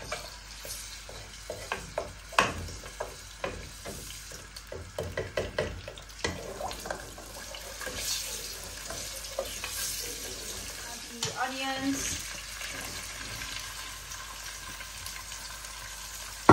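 Cubes of garlic and ginger paste sizzling in hot oil in a non-stick pot, a steady hiss, while a wooden spatula stirs them with frequent knocks against the pan, most of them in the first half.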